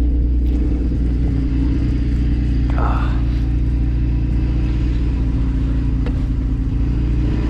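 Jeep engine idling steadily while it warms up after a cold start, with a constant low hum.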